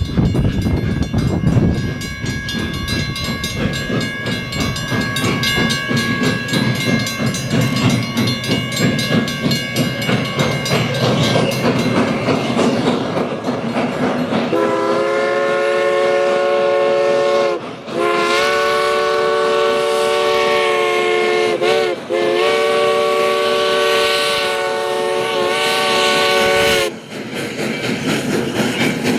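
A steam locomotive's whistle blown in three long blasts over about twelve seconds, the pitch sagging as each blast starts and stops. Before the whistle there is the steady rhythmic running noise of a train working.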